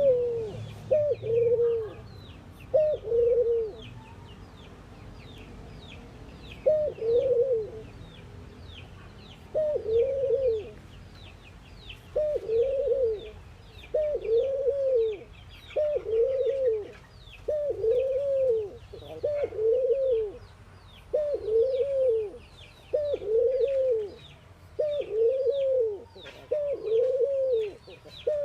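Ringneck doves cooing: arched, rolling coo notes, a few spaced out at first, then a steady run of about one every second and a half from about twelve seconds in. Small birds chirp quickly and high in the background.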